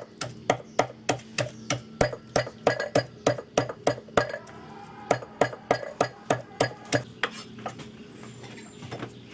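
Rhythmic strikes of a kitchen utensil in food preparation, about three a second, growing fainter near the end, over a steady low hum.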